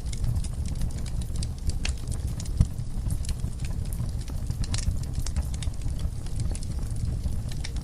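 Wood fire burning in a fireplace: logs crackling with scattered sharp snaps over a steady low rumble of the flames, and one louder pop about two and a half seconds in.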